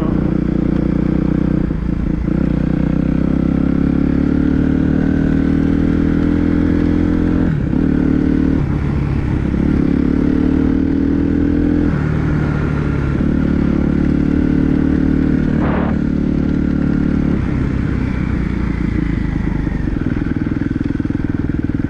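Suzuki dirt bike engine running hard under way, its note climbing under throttle and dropping back several times as the rider works through the track.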